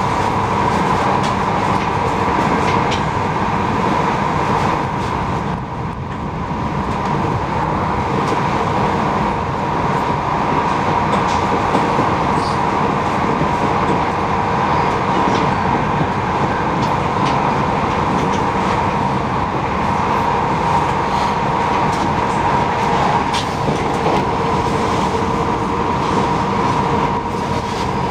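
Passenger train running at speed, heard from inside the carriage: a steady rumble of wheels on rail with a steady whine over it, the noise dipping briefly about six seconds in.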